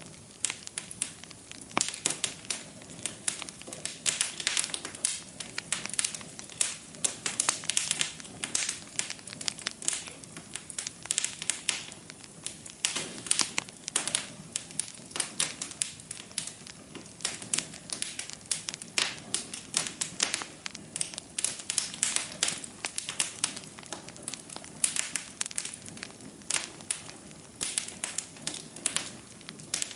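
Wood fire burning in a fireplace, crackling with many irregular sharp pops over a low steady hiss.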